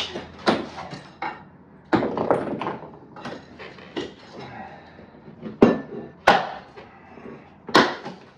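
Sharp, irregular knocks and clinks of a hammer and loose bricks as a brick fireplace front is broken apart, the strikes coming a second or so apart, the hardest about two thirds of the way through and near the end.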